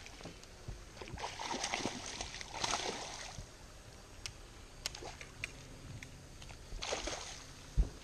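Water splashing and sloshing in bursts at the surface beside a small boat, with a single sharp knock near the end.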